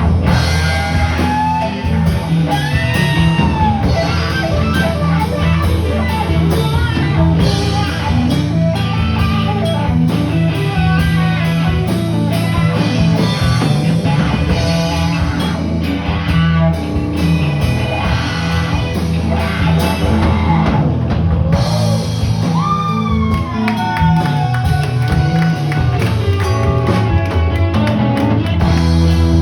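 Live rock music at an open mic: guitar over bass and drum kit, with a voice singing gliding lines.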